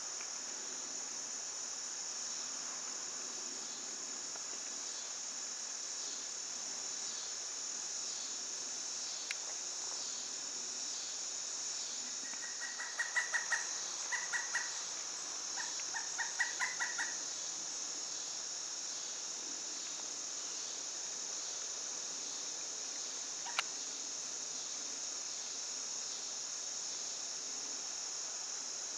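Pileated woodpecker calls: three short runs of rapid, evenly repeated notes about halfway through, over a steady high insect chorus.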